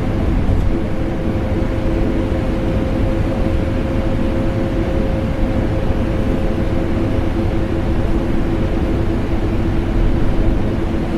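Vacuum cleaner and air conditioner running together: a steady, even rushing drone with a constant motor hum, unchanging throughout.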